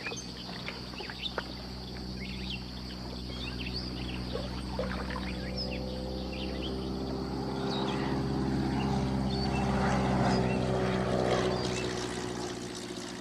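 An engine drones steadily, growing louder until about ten seconds in and easing off near the end. Birds chirp and insects buzz steadily through it.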